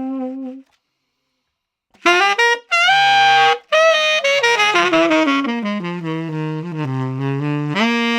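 Solo tenor saxophone, a Conn 10M with a Boston Sax Shop Red Box reed (thin tip, medium heart), unaccompanied and dry. A held note ends, then after a rest of over a second a new jazz phrase begins with bright, loud notes, moves through quick runs, and settles on a held note near the end.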